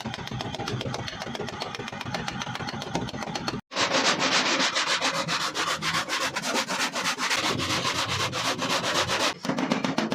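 Sanding on a car body panel: a dense, even scraping that breaks off briefly about a third of the way in, then comes back louder and brighter.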